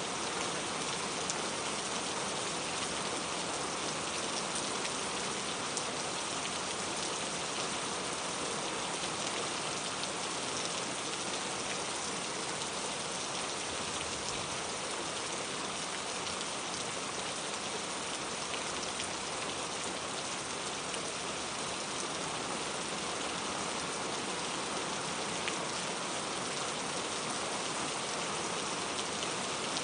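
Steady rain falling on surfaces, an even hiss with scattered individual drops ticking through it.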